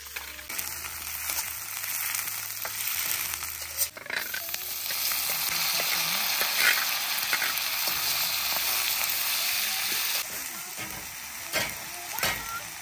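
Oil sizzling in a stainless steel wok as chopped tomatoes, chillies and greens are frying and being stirred with a metal spatula. The sizzle grows louder about four seconds in and eases off near the end, where a couple of sharp knocks sound.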